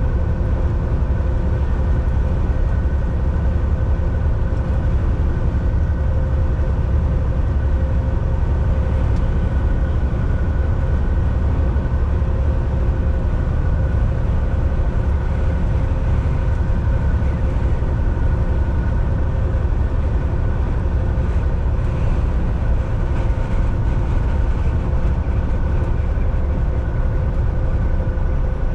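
Volvo VNL 760 semi truck heard from inside the cab while cruising on the highway: a steady, deep engine and road drone with a constant whine from the drivetrain, holding even throughout.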